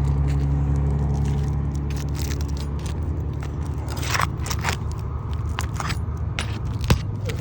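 Old asphalt roof shingles crackling and scraping as they are pried up and worked loose from their nails. Short irregular crackles grow thicker about two seconds in, with one sharp click near the end, over a steady low hum.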